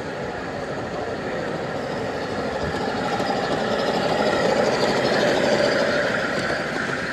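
Model train running past on a layout, its motor and wheels growing louder to a peak about five seconds in, then easing off.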